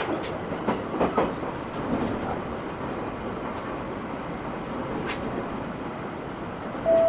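Running noise inside the cabin of an E127 series electric train, a steady rumble with a few sharp knocks of the wheels over rail joints. Near the end a steady two-note tone begins and the level rises.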